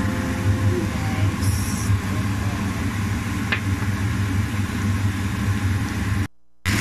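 Diced potato and onion sizzling as they fry in a nonstick wok, over a steady low hum. The sound breaks off for a moment near the end.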